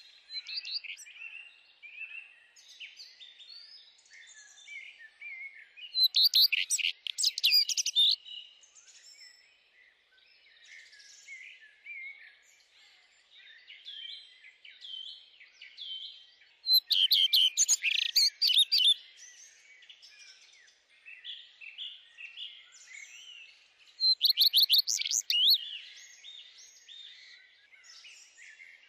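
Songbirds singing: a steady chatter of small chirps and twitters, broken by three much louder, rapid trilled song phrases, about six, seventeen and twenty-four seconds in.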